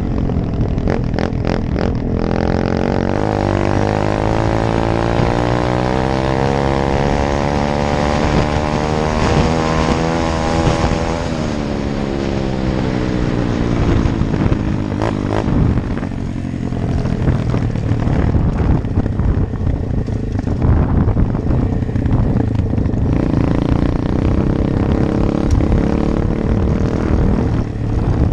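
125 cc Apollo dirt bike engine running under way. About three seconds in, its pitch climbs steadily for several seconds, then drops away into uneven engine noise that rises and falls with the throttle.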